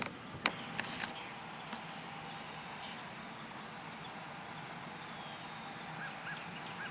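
Outdoor field ambience: a steady high-pitched insect buzz over a low hiss, with a few sharp clicks in the first second and a few short chirps near the end.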